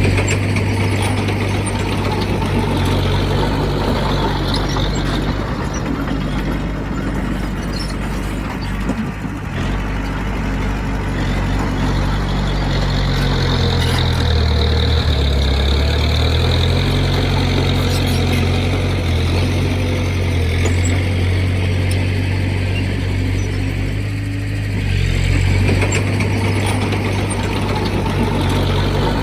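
Diesel engine of heavy earthmoving machinery running steadily under work, its low note shifting a few times.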